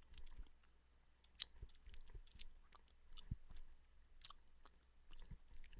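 Faint chewing: scattered soft clicks and crunches a half-second to a second apart, picked up close by a headset microphone.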